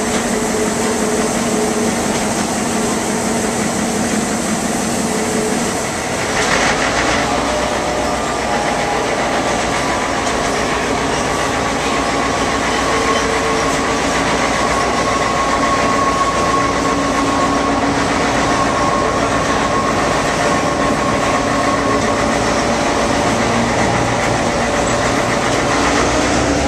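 Train running on the rails, heard from an open coach behind an EMD GP9 diesel locomotive: steady wheel and rail noise with the diesel engine running under it. About six seconds in the engine note changes and a deeper rumble comes up.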